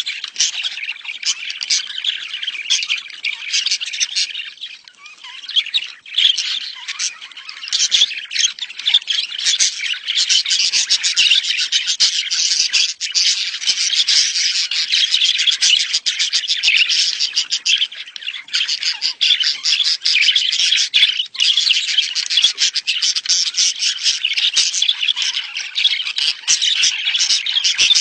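A flock of budgerigars chattering and warbling, a dense, unbroken run of rapid chirps and squawks with a brief lull about five seconds in. This is the breeding chatter played to caged birds to stimulate mating.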